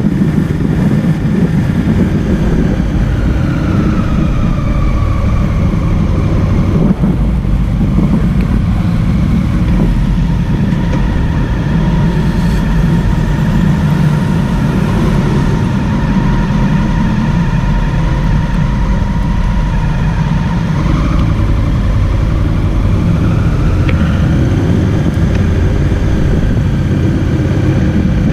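Motorcycle engine and road rumble heard while riding. The engine note drops over the first few seconds, holds steady, then climbs again about three-quarters of the way through.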